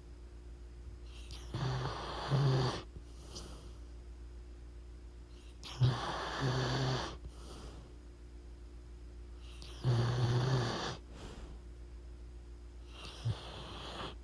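Sleeping dog snoring: slow, regular breaths, each with a buzzy rattle, about one every four seconds.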